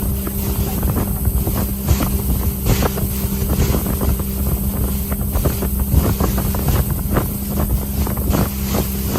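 A river cruise boat's motor running steadily at a constant pitch while under way, with wind buffeting the microphone.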